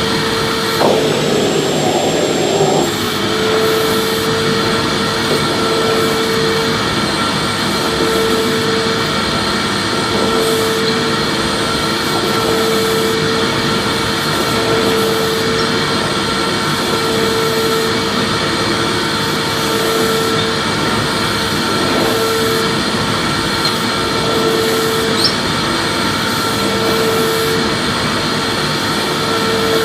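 Vacuum cleaner motor running steadily, a dense rushing noise with a humming tone that swells and dips about every two seconds.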